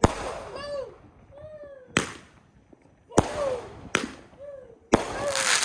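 A consumer firework cake, the Irish Legend, firing its shots: four sharp bangs about a second or two apart, with short whistling tones arching up and falling between them.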